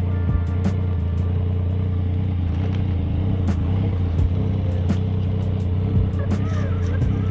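Motorcycle engine running steadily at cruising speed, with no rise or fall in revs, and short crackling clicks scattered throughout.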